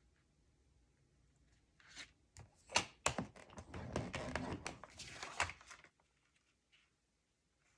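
Cardstock being handled and scored on a scoring board: a sharp knock about three seconds in, then a couple of seconds of scraping, rustling strokes.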